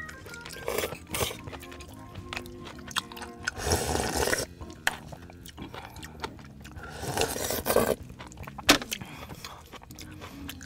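Close-miked eating noises over background music: two longer noisy bursts of eating about four and seven seconds in, and a sharp click near the end.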